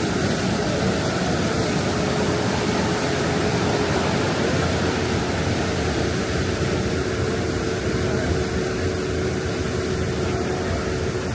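Thames Clippers Uber Boat underway: a steady rush of engine and water noise with a faint steady whine running through it.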